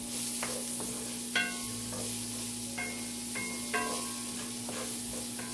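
Diced onions sizzling in oil in a cast iron skillet, stirred with a wooden spoon. Four short ringing knocks sound through the middle.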